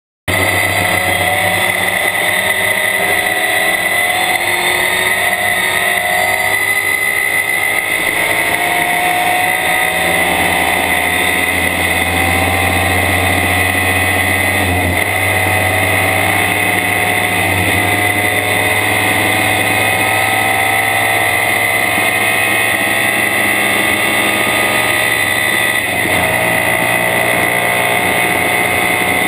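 Stock car's engine running hard under load, heard from inside the roll-caged cockpit; its pitch climbs slowly and steadily as the car gathers speed. It cuts in suddenly at the start.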